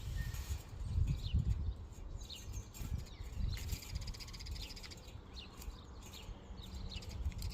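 Starlings and sparrows chirping and chattering: many short high calls, several sliding down in pitch, with a few buzzy rattling calls mixed in. A low rumble runs underneath.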